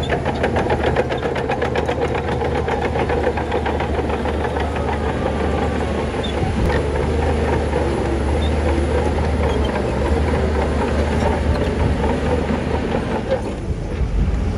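Heavy diesel engine of earthmoving machinery running steadily with a deep rumble. A fast, even clatter sounds over it for the first couple of seconds.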